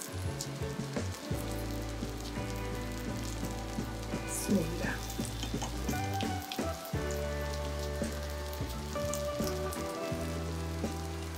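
Semolina-coated chicken kebabs shallow-frying in oil on a flat tawa, sizzling steadily with small crackles. Soft background music with held chords runs underneath.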